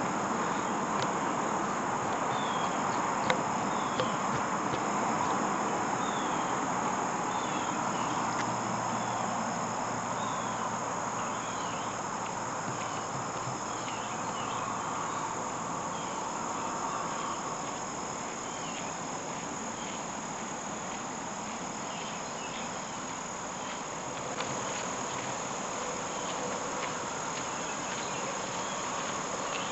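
Insect chorus, crickets and the like, a steady high trill, with short falling chirps repeating roughly once a second through the first half.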